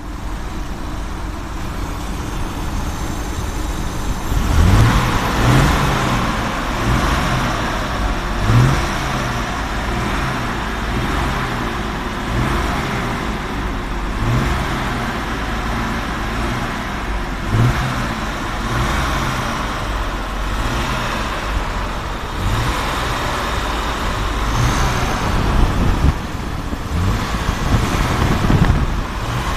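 Jaguar XJ 4.2's straight-six engine running at idle, heard up close in the open engine bay. About four seconds in it grows louder, and its pitch then rises and falls regularly about once a second.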